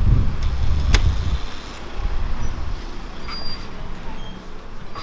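Outdoor street noise with road traffic. A low rumble fades out in the first second and a half, and there is a sharp click about a second in.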